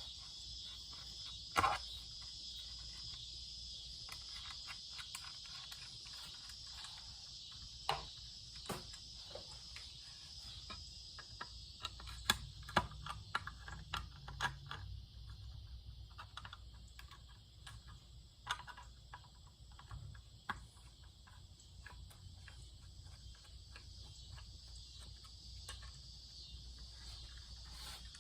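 Scattered small clicks and light knocks of ceiling fan parts and screws being handled during disassembly, over a steady high-pitched chirring that fades about halfway through and returns near the end.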